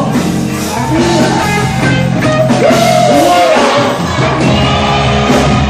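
A band playing, with a singer's voice over steady sustained low notes.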